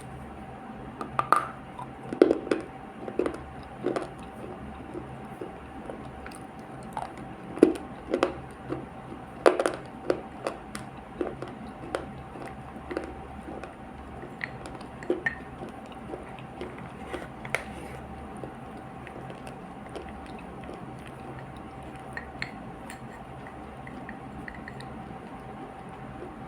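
Close-miked chewing and biting of a multani mitti (Fuller's earth clay) paste: irregular wet crunches and squishes, many in the first ten seconds and sparser after that. A steady faint hum runs underneath.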